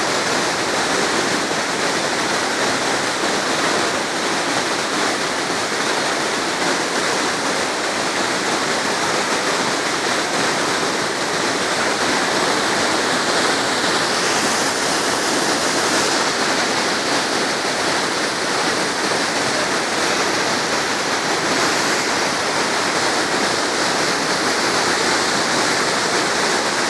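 Waterfall: a loud, steady rush of water pouring over rocks, unbroken throughout.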